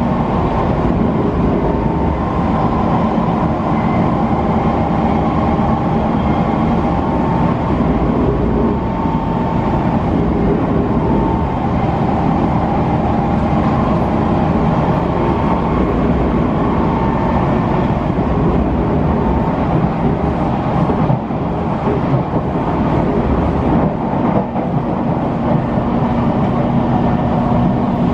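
C151 metro train running at steady speed, heard from inside the passenger car: a continuous rumble of wheels on rail with a few steady humming tones from the drive.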